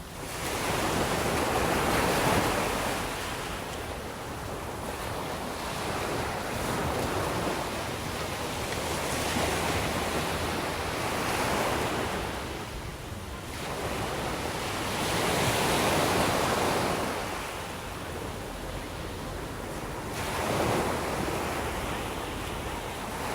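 Sea waves breaking and washing up the shore in slow surges every few seconds, each swelling and then fading away.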